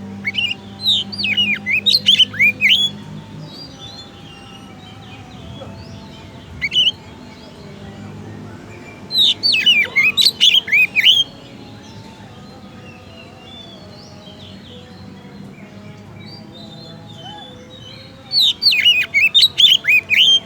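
Oriental magpie-robin (kacer) singing: three loud bursts of rapid, sharply sweeping whistled notes, spaced about nine seconds apart, with one short phrase between the first two. A faint steady low hum lies under the song.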